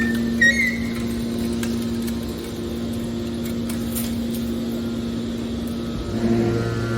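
Aluminium-can baler's hydraulic power unit running, a steady machine hum. There is a brief high squeak just after the start, and the low hum grows heavier about six seconds in.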